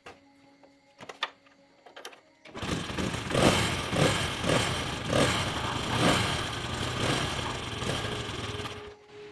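A few sharp clicks, then a rebuilt motorcycle engine starts about two and a half seconds in. It runs with repeated short revs and cuts off suddenly about a second before the end.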